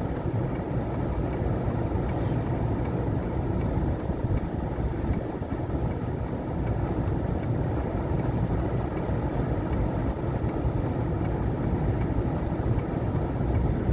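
Steady low rumble of strong blizzard wind buffeting the microphone.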